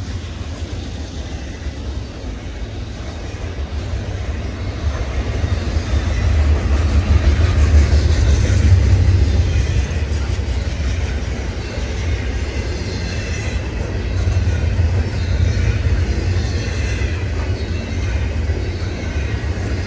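Double-stack intermodal container train rolling past: a steady low rumble of well cars with wheel-on-rail noise, swelling loudest about halfway through.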